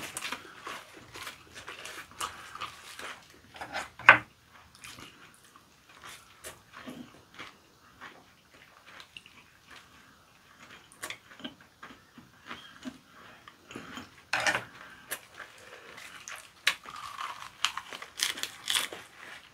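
People chewing and biting raw squid sashimi wrapped in red leaf lettuce, with wet mouth sounds and scattered clicks; a sharp click about four seconds in is the loudest sound.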